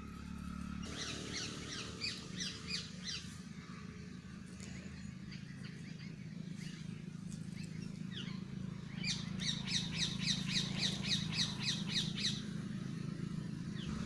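A bird calling in runs of short, high, quickly repeated notes. A looser run near the start is followed by scattered single notes, then a longer, faster run about nine seconds in. A steady low hum lies underneath.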